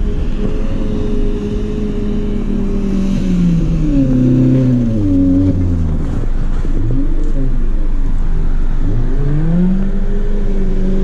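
Car engine revving hard near the top of its range and holding there, dropping and wavering about four seconds in, then climbing back up to a high steady pitch near the end.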